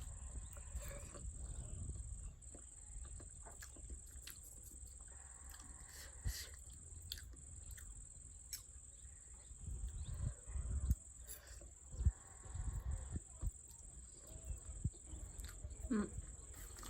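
Close-up eating sounds: chewing and mouth noises with scattered small clicks and soft low knocks, over a steady high-pitched whine.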